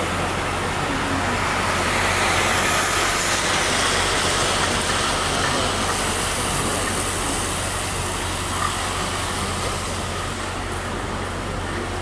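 Train running through a station: a steady rushing rumble of wheels on rail that swells a couple of seconds in and then slowly fades.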